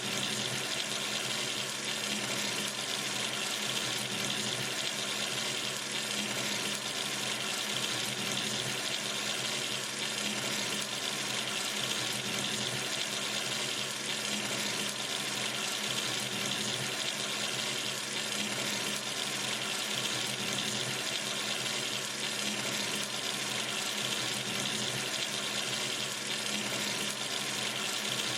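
Tap water running steadily into a sink: an even, unbroken rush of falling water.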